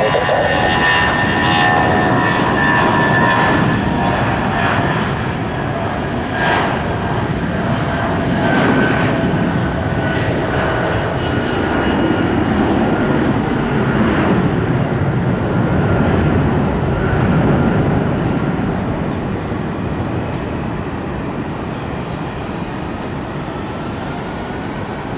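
Jet aircraft engines running at an airport, a loud, dense noise with high whining tones, easing off over the last several seconds.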